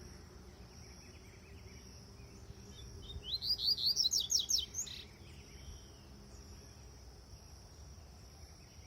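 A double-collared seedeater (coleiro) sings a short phrase of about eight quick rising notes lasting a second and a half, about three seconds in. A steady high insect drone runs underneath.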